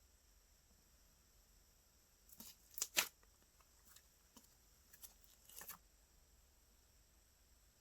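Slime being handled and pressed by hand, giving small crackling clicks: a short cluster about two and a half to three seconds in, the loudest, and a smaller one near six seconds, with near silence between.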